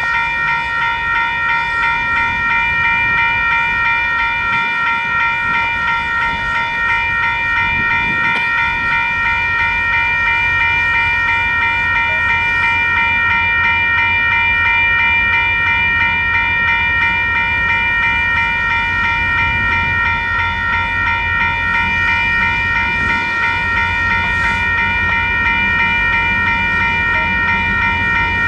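Two WCH electronic railroad crossing bells ringing continuously in a steady, slightly warbling tone. Under them, from about nine seconds in, comes the low rumble of a slow freight train's cars rolling past.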